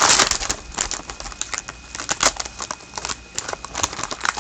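A trading-card pack wrapper crinkling and tearing as it is opened, with scattered small clicks and rustles of the handling, loudest at the start.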